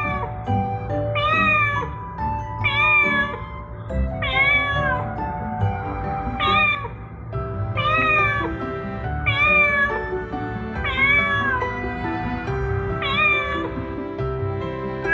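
A cat meowing over and over, a meow about every second and a half, with background music playing underneath.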